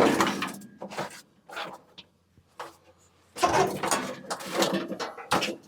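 Handling noises of metal parts: a sharp metal clank at the start that rings and fades over about a second, a few scattered knocks, then about two seconds of rattling and shuffling past the middle.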